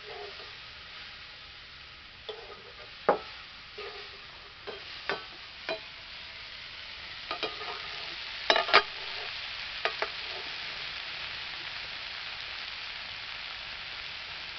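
Water spinach stir-frying in a metal kadai: a steady sizzle, with a metal spatula scraping and clinking against the pan several times during the first ten seconds, after which only the sizzle goes on.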